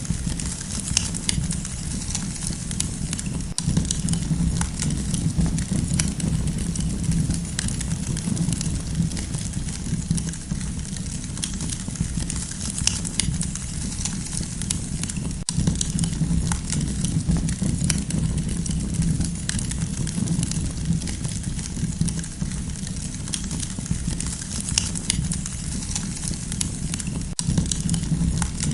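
Campfire crackling, with scattered sharp pops and snaps over a steady low rush.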